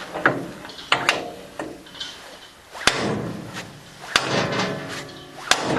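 Hammer knocking on the metal parts of a TMR feed mixer while a new bearing is fitted: about seven sharp, irregular knocks, each with a short metallic ring.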